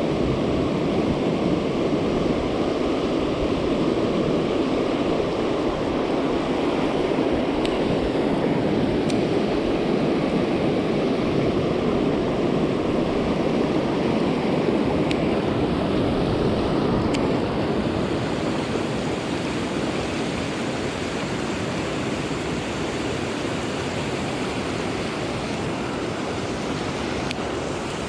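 Fast-flowing stream running high after rain, a steady rushing of water that eases slightly about two thirds of the way through, with a few faint ticks.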